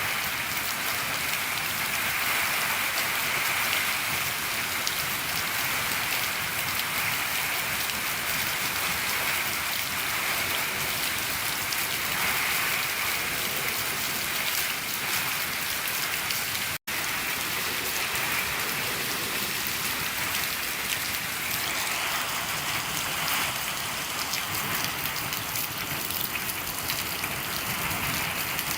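Steady rain falling on a shed roof, an even patter with no let-up, broken once by a split-second gap about two-thirds of the way through.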